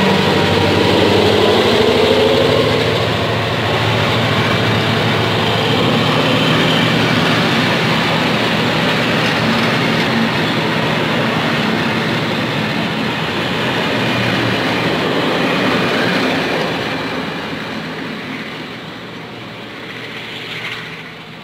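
Diesel-hauled train passing. The locomotive's engine tones sound at the start, then wagons roll by on the rails, and the sound fades away over the last few seconds.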